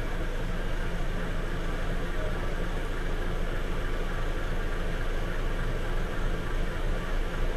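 Large ferry's engines running: a steady low drone under an even rushing noise.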